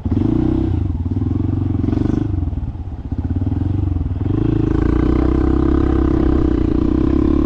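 Motorcycle engine accelerating: its pitch climbs and drops back twice, as with gear changes, then from about halfway through it climbs again and holds a steady higher note.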